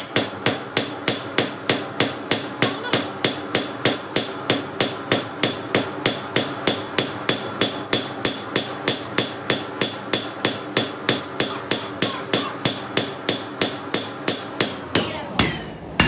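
Blacksmith's hand hammer striking steel on an anvil in fast, even blows, about three or four a second, each with a bright metallic ring. Near the end the rhythm breaks off and a few slower blows follow.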